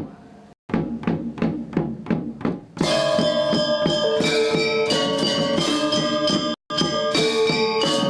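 Balinese gamelan gong ensemble playing a classical lelambatan piece. A run of quick single struck notes is followed, about three seconds in, by the full ensemble of ringing bronze metallophones and gongs. The sound cuts out briefly twice.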